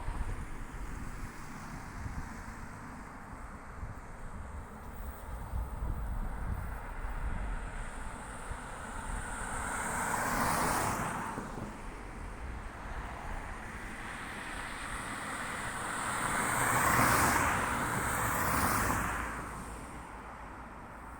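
Road vehicles passing by, one about halfway through and two close together near the end, each swelling and fading, with wind buffeting the microphone throughout.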